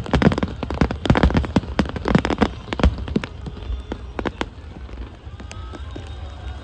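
Fireworks crackling overhead: a rapid, dense spatter of small pops that thins out after about four and a half seconds, over a steady low rumble.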